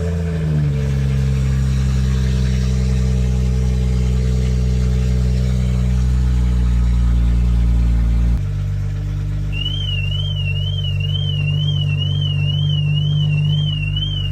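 Car engine idling high just after a start, then dropping to a lower idle about eight seconds in. From about halfway through, a car alarm sounds: a high warbling siren rising and falling about twice a second.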